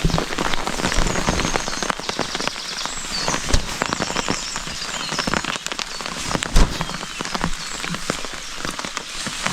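Rain falling hard on a thin, non-waterproof tent, a dense patter of drops on the fabric. Two louder knocks come about three and a half and six and a half seconds in.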